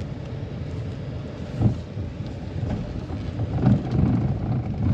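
A vehicle driving along a road: a steady low engine and road rumble with wind on the microphone, and a couple of louder bumps, one about a second and a half in and another near the end.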